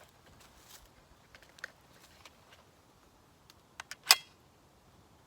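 A few light clicks, then one sharp metallic clack with a short ring a little after four seconds in.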